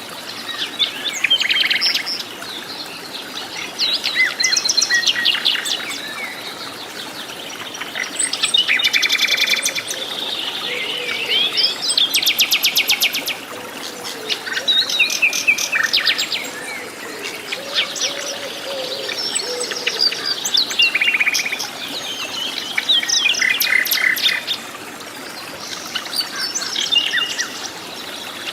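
Several forest birds singing and calling over one another: chirps and fast, buzzy trills of rapidly repeated notes, coming and going throughout.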